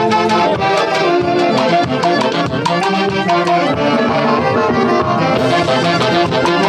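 Live Andean brass orchestra playing dance music, with saxophones and brass carrying a melody over a steady percussion beat.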